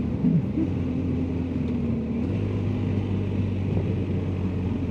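BMW R1250GSA motorcycle's boxer-twin engine running at low speed, a steady drone whose low note shifts slightly about two seconds in.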